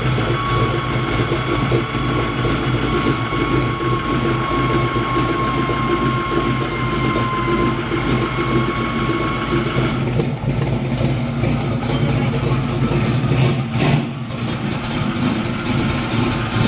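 Custom 1969 Chevrolet Camaro's engine running at low speed as the car is backed up the steel ramps into a car trailer. A steady high whine runs over it and stops about ten seconds in, and a few knocks follow.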